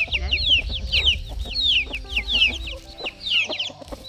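Chickens: many short, high, falling peeps overlapping several times a second, a busy flock chorus. A low rumble lies under it and fades out about three seconds in.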